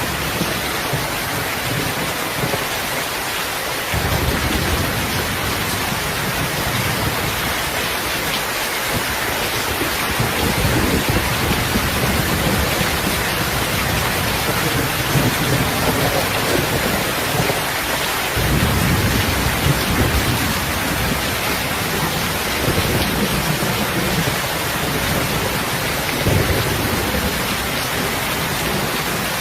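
Steady rain falling, with low rumbles swelling in about four seconds in and again several times later.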